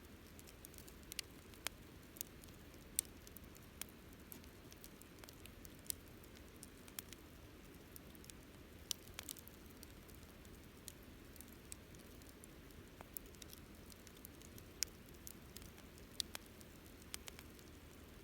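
Wood campfire crackling: irregular sharp snaps and pops of burning wood, several a second, over a faint low rush.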